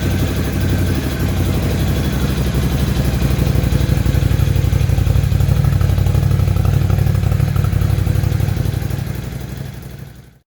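Ducati Scrambler 1100's air-cooled L-twin engine idling steadily on its first start-up, running a little louder from about three and a half seconds in, then fading out near the end.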